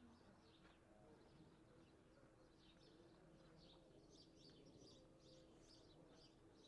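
Near silence with faint, scattered chirping of small birds, growing busier about halfway through.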